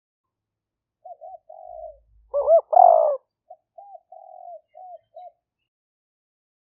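Spotted dove cooing: a phrase of soft rounded coos, rising to two louder notes about two and a half seconds in, then a few quieter coos that stop a little after five seconds.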